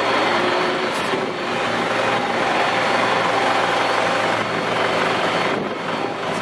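Jet engines of a Boeing 747-400 freighter running, a loud, steady rushing noise with a low hum beneath it.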